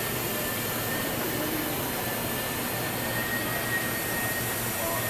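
Steady rushing background noise with a faint, steady high-pitched whine.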